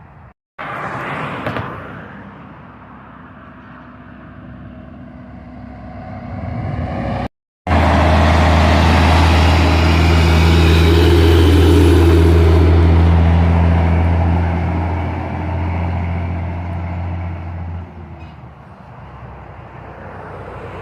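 Heavy truck engines in short clips joined by hard cuts. In the longest clip, a deep, steady engine drone comes in loud about eight seconds in and fades away near the end.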